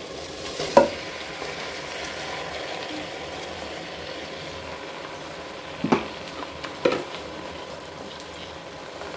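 Washed rice poured into hot oil and fried onions in a pot, setting off a steady sizzle. Three sharp, ringing clinks of metal cut through it, one about a second in and two more around six and seven seconds in.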